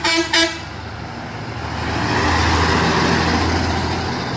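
A truck's horn gives two short toots, then the truck's engine and tyres go by, swelling to a peak in the middle and fading away.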